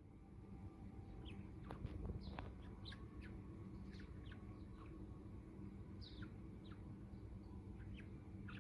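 Budgerigar chirping: short, scattered chirps and quick pitch glides, over a steady low background hum.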